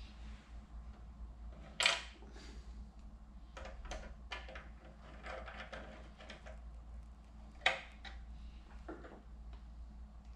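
Small hardware parts being handled: light clicks and rustling, with two sharper clacks, one about two seconds in and one near the end.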